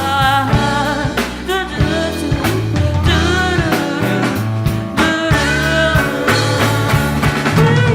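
Live band music, played loud: drums keep a steady beat under bass and a lead melody line whose notes bend and waver.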